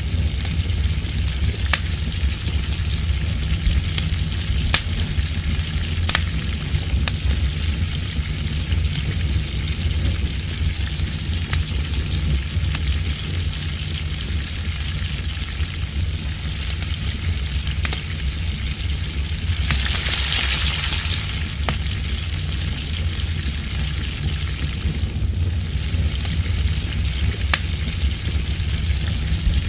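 Food sizzling and spitting in a pan over a campfire: a steady frying hiss with scattered sharp pops, swelling to a louder hiss for about a second two-thirds of the way through. A steady low rumble of heavy wind on the microphone runs underneath.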